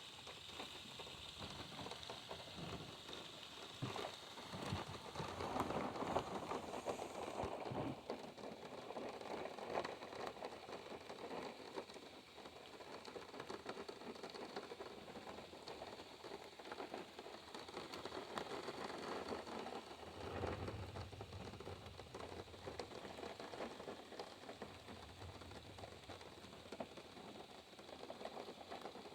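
Steady rain falling on a car, with scattered drop taps in the first few seconds. A faint low rumble comes in about twenty seconds in and again a few seconds later.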